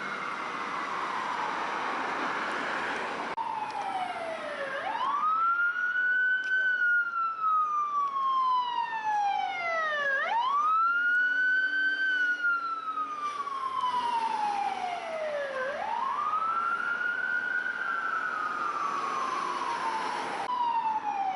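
Emergency vehicle siren on a wail: each cycle rises quickly and then falls slowly, repeating about every five and a half seconds. During the first three seconds a rushing vehicle noise runs under a falling siren tone, then stops abruptly.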